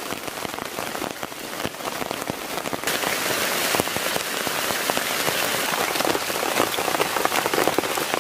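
Steady rain falling on tent fabric and leaf litter, with many separate drop hits through it; about three seconds in it becomes louder and hissier.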